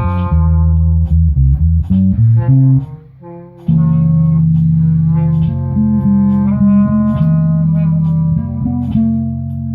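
Amplified guitar and bass playing sustained notes in a jam, with a short break about three seconds in.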